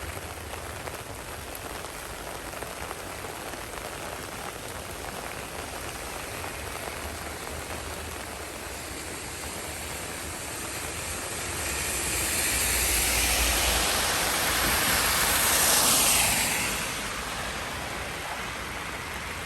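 Heavy rain falling steadily. Past the middle a louder rushing hiss with a low rumble swells up, peaks and dies away again.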